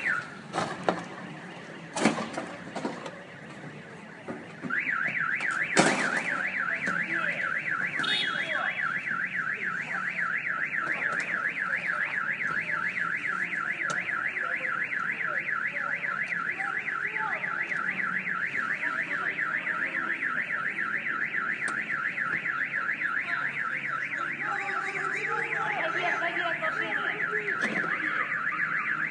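A few sharp knocks, then from about five seconds in an electronic alarm, such as a car alarm, warbling rapidly up and down in pitch, several times a second, without pause.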